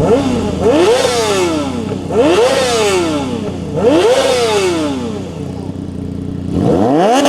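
Car engine with a loud exhaust being revved hard. About four revs, each rising and falling, then near the end it revs up and holds at a steady high pitch.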